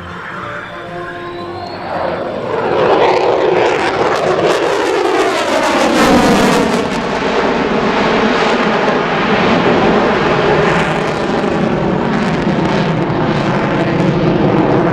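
F-22 Raptor jet fighter passing on full afterburner: a loud jet noise swells in about two seconds in, crackles at its peak around six seconds, and runs on loud as the aircraft goes by.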